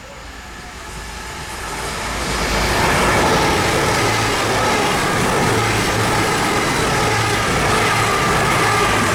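A diesel train approaching, its engine and wheels growing louder over about the first three seconds, then running past steadily with a few steady tones in its sound.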